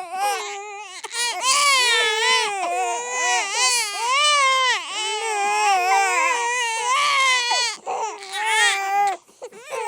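Babies crying: loud, high-pitched wails that rise and fall in pitch, almost without a break, with short pauses for breath about half a second in and just past nine seconds.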